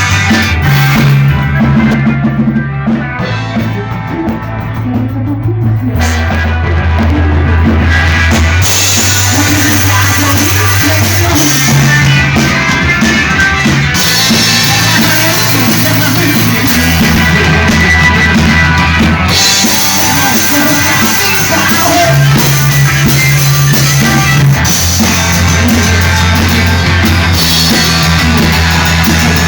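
Rock music played by a band with drum kit, bass and guitar. A bass line steps between notes throughout. The drums and cymbals come in fully about eight seconds in, and the full band sound then runs on.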